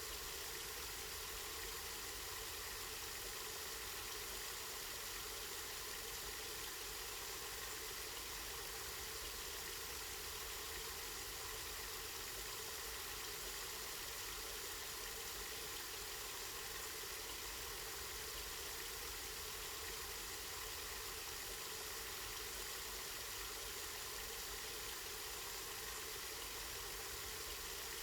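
Water running steadily from a spring, a continuous even rush with no breaks.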